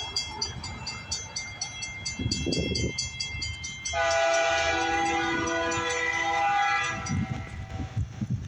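A railroad crossing bell ringing in a quick even rhythm, then a diesel locomotive's air horn sounding one long blast of about three seconds, starting about four seconds in, over the low rumble of the approaching freight train.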